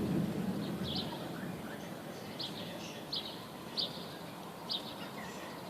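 A roll of thunder dying away over the first second or two, followed by a small bird giving five or six short, high chirps.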